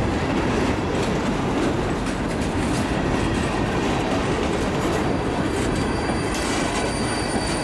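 Freight train hopper cars rolling past, a steady rumble and rattle of steel wheels on the rail. From about five seconds in, a faint high squeal of wheels on the curving track rides over it.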